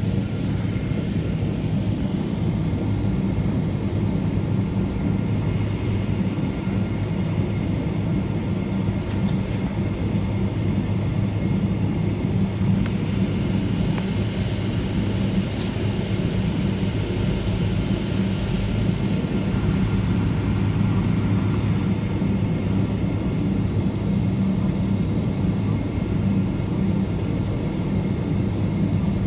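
Steady low rumble and engine drone of a Boeing 777-200 heard inside the passenger cabin, with a few faint ticks.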